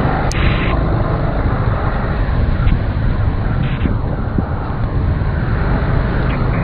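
Steady wind buffeting on the action-camera microphone while riding a Honda Forza 350 scooter at speed, with road and traffic noise mixed in and a brief sharp hiss just after the start.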